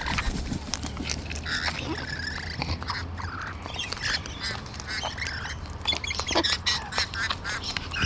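A flock of wild birds calling close by: short, repeated honking calls mixed with squeaks, over a steady run of sharp clicks and scuffles.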